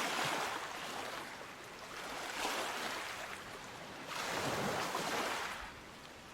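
Sea waves washing onto a beach: three swells of hiss, each rising and fading over about two seconds.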